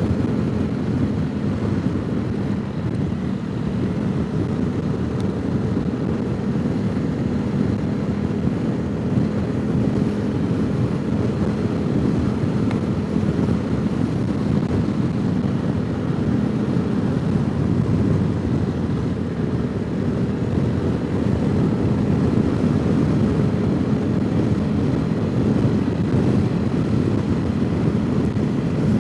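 Honda CRF300 Rally's single-cylinder four-stroke engine running at a steady cruising speed, its note holding an even pitch throughout. Wind noise on the microphone mixes with the engine.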